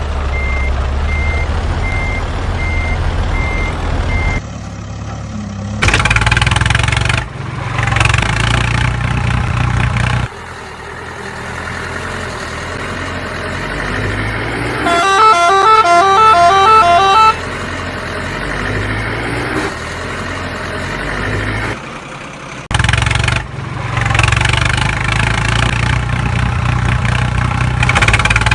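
A series of vehicle engine sounds cut together abruptly, with a pulsed reversing beep for the first four seconds or so and a short tune of stepped horn notes about halfway through.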